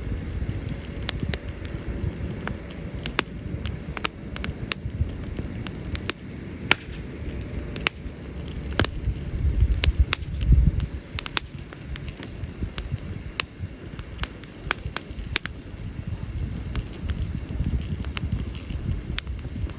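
Wood campfire crackling, with sharp pops of burning wood coming irregularly several times a second over a steady low rumble that swells about ten seconds in.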